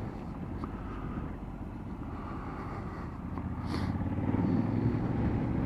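Motorcycle engine running with road and wind noise, growing louder in the second half.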